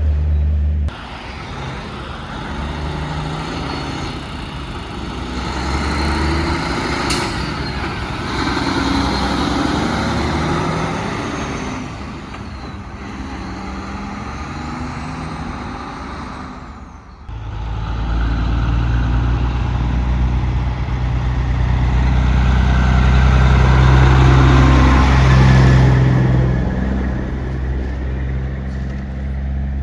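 Semi trucks driving past: diesel engines running with tyre and road noise. The sound changes abruptly about a second in and again about seventeen seconds in, where a deeper, louder engine hum takes over.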